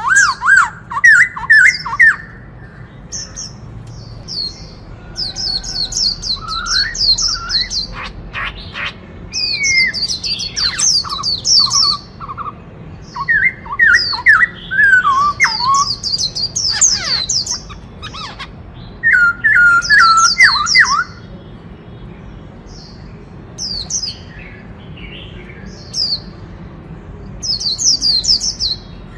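Black-throated laughingthrush singing: loud phrases of rapid, sweeping whistled notes, some high and some lower, coming every few seconds with short pauses between them.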